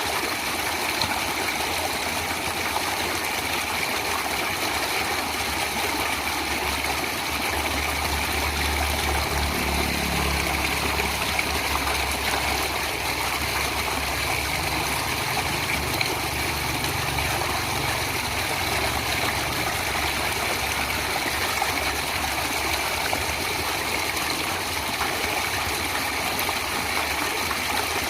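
Stream water rushing steadily. A low engine-like rumble rises beneath it about a quarter of the way in and fades out past the middle.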